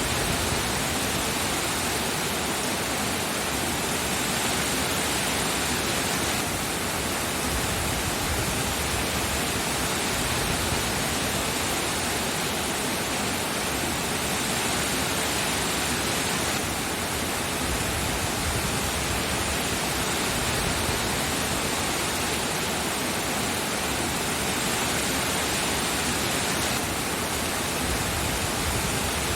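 Steady, dense rain noise, an even hiss with no distinct drops or thunder.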